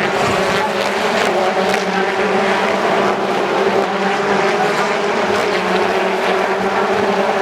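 BTCC touring cars' turbocharged 2.0-litre four-cylinder engines running at race speed, with a steady, held engine note.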